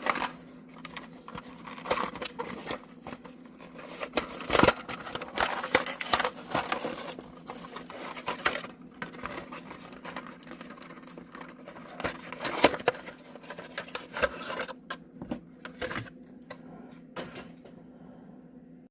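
Small plastic die-cast toy parts and their packaging being handled on a table: irregular rustling and crinkling with sharp clicks, the loudest about four and a half and twelve and a half seconds in.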